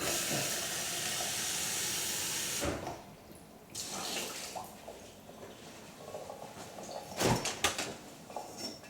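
Water running from a kitchen tap for about two and a half seconds, then shut off, followed by a few knocks and clatters of kitchen items being handled.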